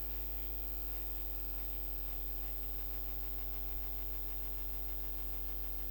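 Steady electrical mains hum with a buzz of several constant higher tones over it, unchanging throughout.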